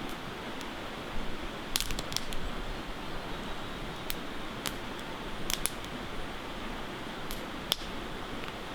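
Wood campfire crackling, with sharp irregular pops, a quick cluster about two seconds in and single ones after, over the steady rush of a river.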